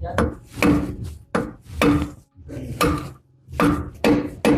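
Hammer blows on metal: about eight sharp strikes at an uneven pace, each with a short metallic ring.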